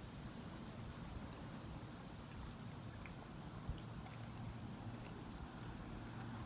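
Wind buffeting the microphone, a low, uneven rumble, with a small knock a little past the middle.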